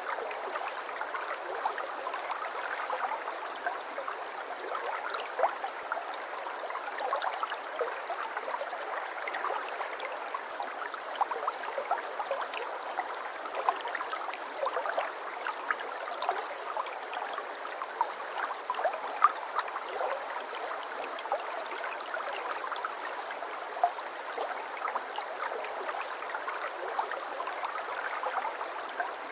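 Shallow brook babbling over stones: steady trickling and gurgling, dotted with small splashes and the odd louder plop.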